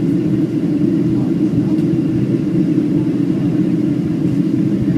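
Steady low rumble inside the cabin of a Boeing 737-700 airliner: engine and airflow noise, even throughout.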